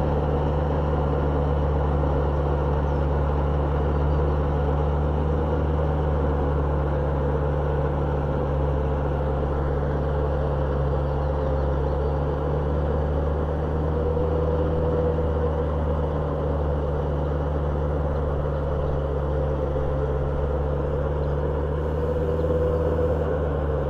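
Kubota tractor's diesel engine running at a steady speed while driving a rotavator through the soil.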